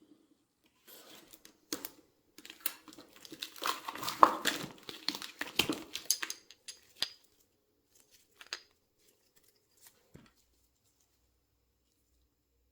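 Crinkling and rustling of packaging with sharp light clicks and knocks as a new set of motorcycle brake pads is unwrapped and handled. The handling is busiest from about one to seven seconds in, followed by a few single clicks.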